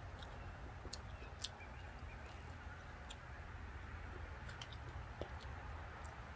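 Faint chewing of a lemon slice with a few short clicks, over a steady low hum.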